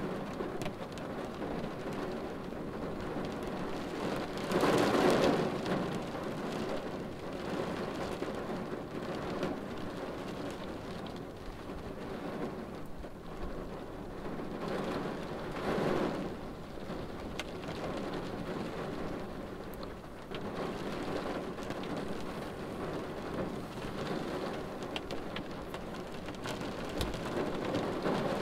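Rain falling on a car windshield, heard from inside the car: a steady hiss of rain with scattered drop taps, briefly swelling louder about five seconds in and again around sixteen seconds.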